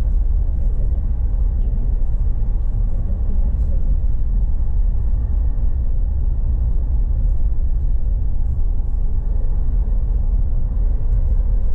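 Steady low rumble of a moving bus heard from inside the passenger cabin: engine, road and tyre noise, with no changes or distinct events.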